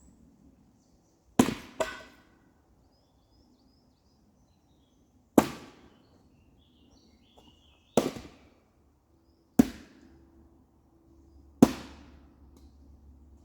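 Sharp knocks of firewood being worked, five at irregular gaps, the first a quick double knock, each with a short ringing tail. A low steady hum comes in near the end.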